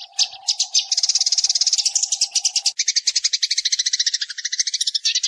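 Sparrows chattering in a fast, unbroken stream of short high notes, about ten a second, as a decoy call recording for luring sparrows. A steady low hum runs under the first half and stops about two and a half seconds in.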